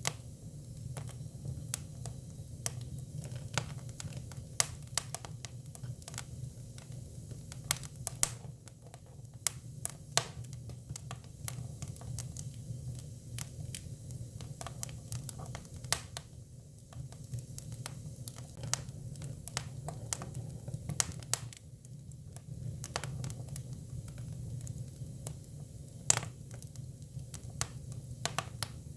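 Hinoki cypress firewood burning: irregular sharp crackles and pops, a few a second, over a steady low rumble.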